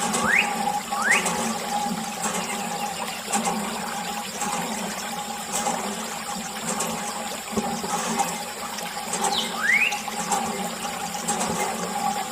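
Water running and splashing from a small water pump, over the pump's steady motor hum. Three short rising chirps come through, two near the start and one about ten seconds in.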